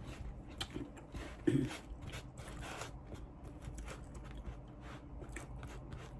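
Close-miked chewing and biting of crispy fried chicken wings: a run of short, irregular crunches.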